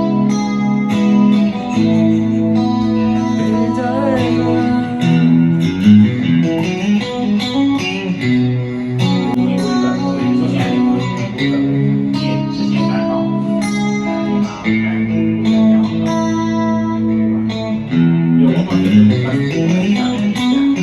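Ibanez RGA42EX electric guitar played through a Zoom G5n multi-effects unit, ringing out held chords and single notes, with a wavering note about four seconds in and notes sliding upward near the end.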